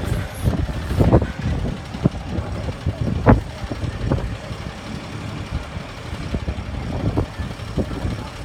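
Peterbilt truck's diesel engine running in a steady low rumble, with irregular low thumps scattered through it, the loudest about a third of the way in.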